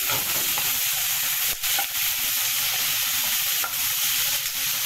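Sliced bell peppers, carrots and mushrooms sizzling steadily as they are stir-fried in a hot pan, with a few sharp taps of the stirring utensil against the pan.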